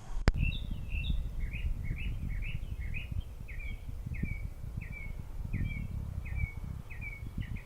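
A songbird singing a long run of short repeated chirps, about two a second, over a low rumble of wind or mic handling. A sharp click comes just after the start.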